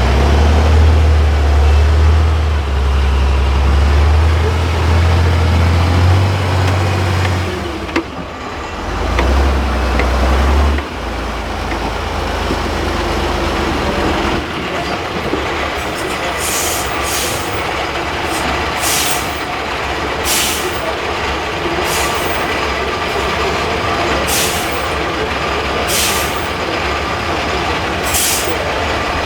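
Heavy Tatra 8x8 off-road truck's diesel engine labouring with a deep low drone, which drops away twice in the first half. Later comes a run of about eight short hisses of compressed air from the truck.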